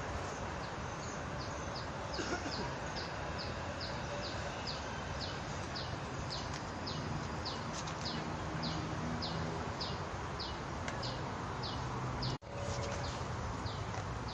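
A bird calling over and over, a short falling high note about two times a second, over steady outdoor background noise. The sound cuts out for an instant near the end.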